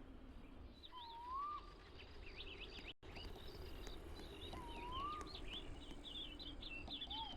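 Birds chirping and calling over steady low background noise, with a clear whistled note that rises and falls twice, about a second in and again near five seconds, and a busier run of short chirps in the second half.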